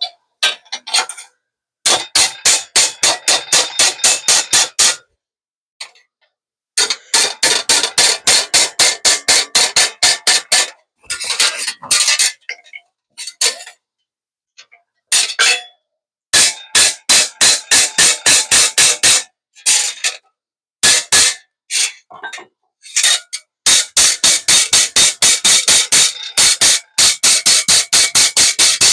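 Hammer striking sheet metal in rapid runs of about six or seven blows a second, each run lasting a few seconds with short pauses between.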